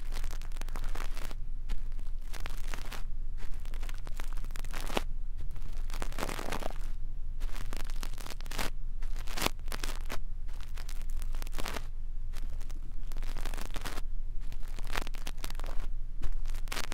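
Brush bristles stroking and scratching right against an ASMR microphone in a run of uneven, scratchy swishes, with a faint steady low hum underneath.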